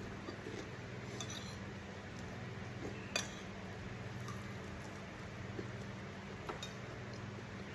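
Cutlery clinking against dishes while eating: a few light, scattered clinks, the sharpest about three seconds in, over a steady low hum.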